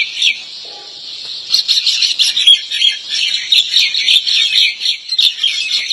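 Many small birds chirping rapidly and continuously, a dense chatter of short high calls that thickens about a second and a half in.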